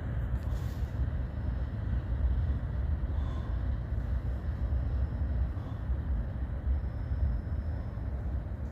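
Steady low rumble of a freight train on the line, with no distinct horn or bell.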